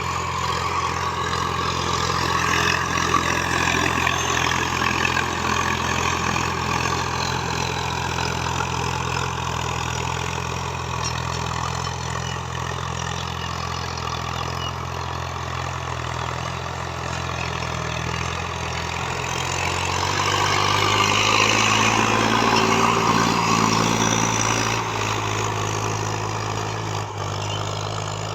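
745 DI tractor's diesel engine running steadily. About two-thirds of the way through its note shifts and grows louder for a few seconds, then eases back.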